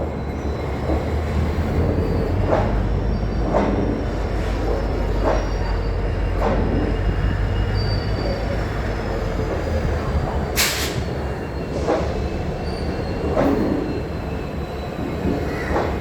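Indian passenger train pulling out of a station, its wheels knocking over rail joints roughly every second or two over a steady rumble, with faint wheel squeal. A brief sharp noise stands out about ten seconds in.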